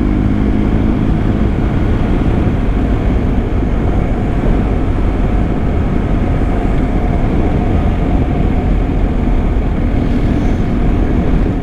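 BMW GS Adventure motorcycle being ridden at a steady speed, its engine and road noise running loud and unchanging.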